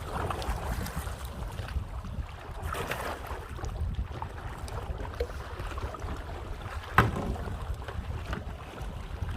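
Kayak paddling: paddle strokes swishing and splashing through water every second or so over wind rumbling on the microphone. One sharp knock about seven seconds in.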